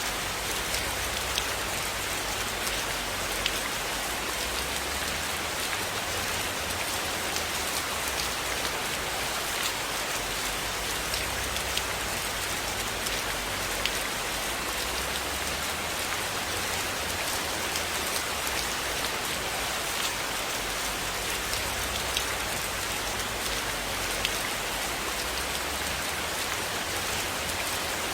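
Steady rain falling on a roof, a constant hiss with small scattered ticks of individual drops.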